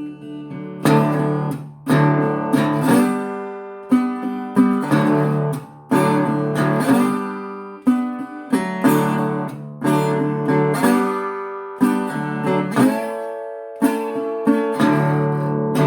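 Acoustic guitar playing an instrumental break: a chord strummed about every two seconds, with notes sliding upward between the chords.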